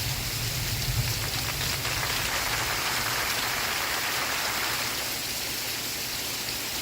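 Steady rain falling, an even hiss of drops. A low rumble underneath fades about two seconds in.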